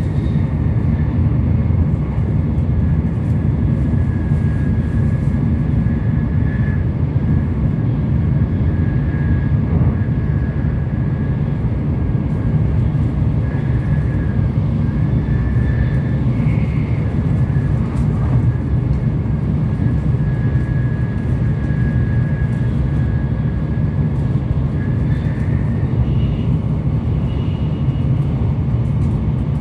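Tokaido Shinkansen bullet train running at speed, heard from inside the passenger cabin: a steady low rumble with a faint high whine that comes and goes above it.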